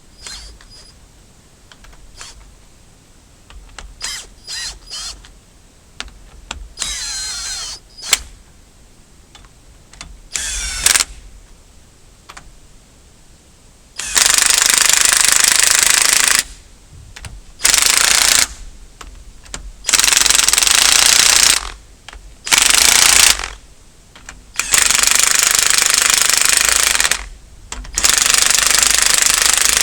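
A hand-held power tool worked on the bulldozer engine. It gives a few short starts with a brief whine rising and falling, then about six loud runs of two to three seconds each, with short pauses between them.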